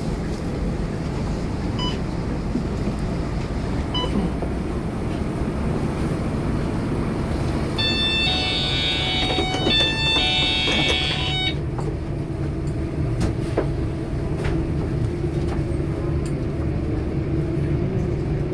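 Scania K230UB city bus running, a steady low engine and road rumble heard from inside the cabin. About eight seconds in, a short run of high tones sounds for roughly three and a half seconds.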